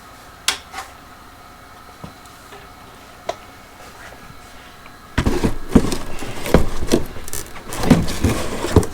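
Handling noise: a few light clicks, then, about five seconds in, a loud, irregular run of rustling, knocking and clattering as things are picked up and moved about.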